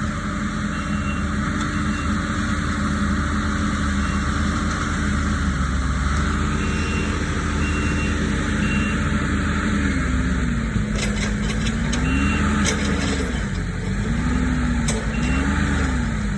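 Kubota SVL75-2 compact track loader's diesel engine working under load while pushing out tree roots. Its pitch holds steady at first, then dips and recovers again and again as the engine lugs. A backup alarm beeps on and off, and a few sharp cracks come about two-thirds of the way through.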